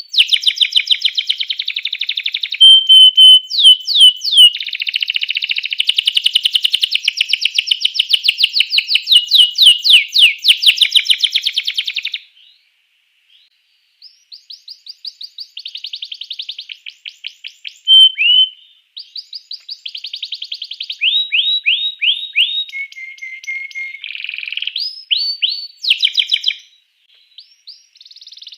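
Domestic canary singing: fast trills and rolls of rapidly repeated notes, changing from phrase to phrase. The song breaks off for about two seconds around the middle, then resumes.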